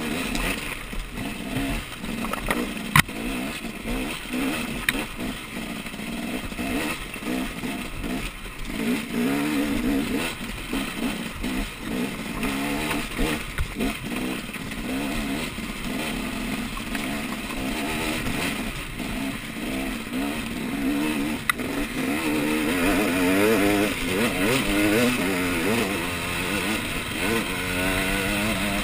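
Off-road motorcycle engine revving up and down continuously, its pitch rising and falling with each throttle change, with a couple of sharp knocks about three seconds in and again near the twenty-second mark.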